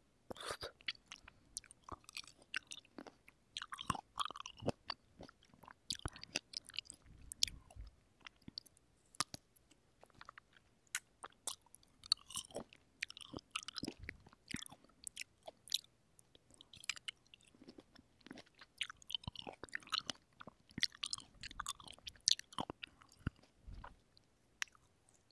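Close-miked chewing of fresh cherries: wet, juicy bites and squishes with many short, sharp mouth clicks and smacks, one after another.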